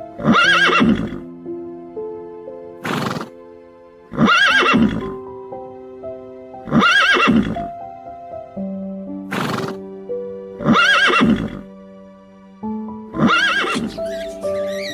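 Background music with a loud animal call repeated about seven times, roughly every two seconds; each call is short and wavers up and down in pitch.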